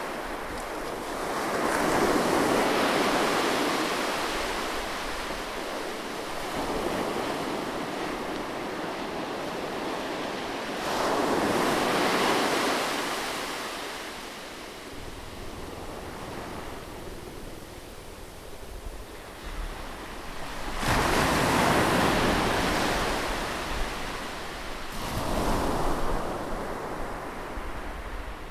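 Sea waves breaking close to the shore and washing back, one surge roughly every nine to ten seconds, with a smaller wave following the third one near the end.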